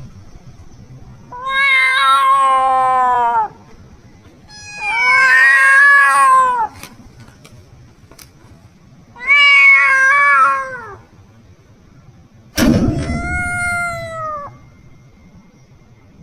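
Kitten meowing: four long, drawn-out meows about two seconds each, spaced a couple of seconds apart, each bending down in pitch at the end. A low knock sounds just as the fourth meow starts.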